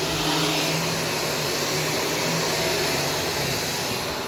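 Shark Stratos upright vacuum cleaner running steadily, its motor whine over a broad rush of airflow.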